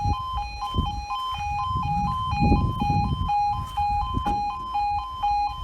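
Railway level crossing audible warning alarm sounding: an electronic two-tone alarm switching back and forth between two pitches at an even, rapid rhythm, with a low rumble underneath.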